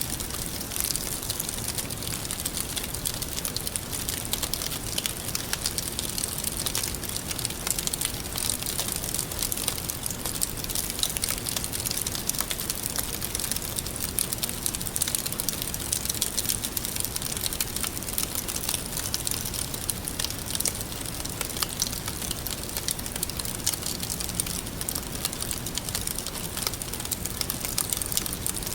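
Wood fire crackling steadily, with a dense stream of small pops and snaps.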